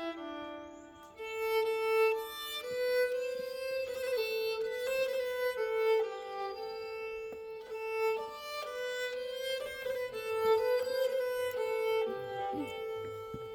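Nyckelharpa, the Swedish keyed fiddle, bowed in a Swedish folk tune: a melody of held notes, picking up again after a short dip about a second in.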